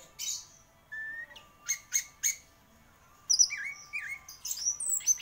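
Orange-headed thrush (anis merah) singing a varied, quick song. A short whistled note comes about a second in and three sharp notes follow around two seconds in. A dense run of rapidly changing whistles starts after a brief pause about three seconds in.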